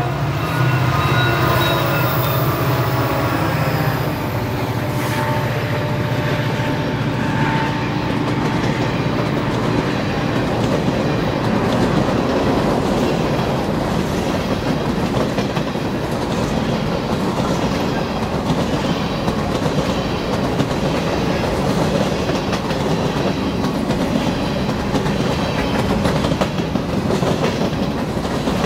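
A train rolling past: a long steady rumble of rail cars going by, with wheels clicking over the rail joints.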